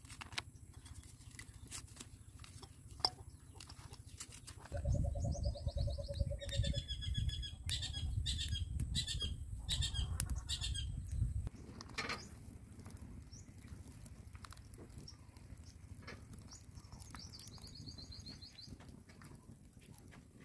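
Birds calling, with a quick series of repeated chirps in the middle and a short trilling song near the end, over a low rumble that lasts several seconds in the middle. There is a sharp click about three seconds in.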